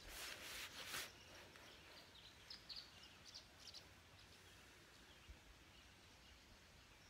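Faint outdoor ambience with a few brief, high bird chirps in the middle, after a short rustle in the first second.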